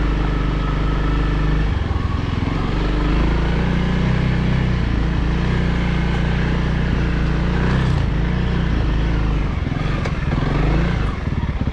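Honda CRF300L's single-cylinder four-stroke engine running under throttle on the move, its revs rising and falling, with a short drop in revs near the end.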